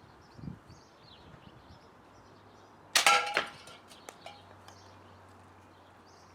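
A 9mm steel ball bearing shot from a slingshot hits an empty drink can with one sharp metallic clang about three seconds in, which rings briefly. A few light clinks follow.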